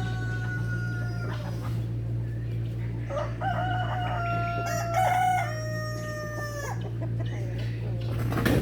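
Rooster crowing: a short call at the start, then one long crow from about three seconds in that drops off at the end, over a steady low hum.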